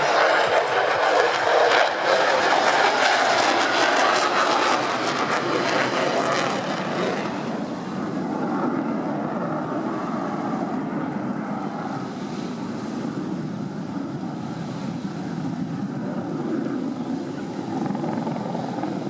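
Military display aircraft flying past, loud and strongest for about the first seven seconds, then dropping to a lower, quieter rumble for the rest.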